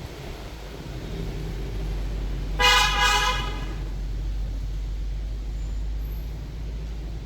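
A vehicle horn honks twice in quick succession about two and a half seconds in, over a steady low rumble of engines and traffic.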